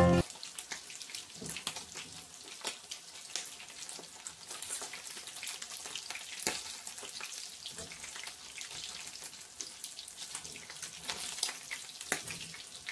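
Chicken wings frying in shallow hot oil in a pan: a steady crackling sizzle with many scattered small pops.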